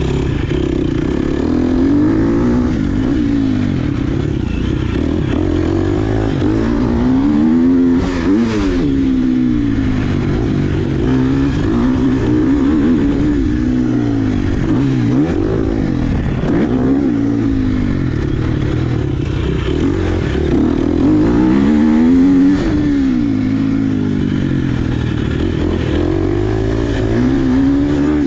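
Dirt bike engine being ridden hard, revving up and dropping off again every couple of seconds as the throttle opens and closes.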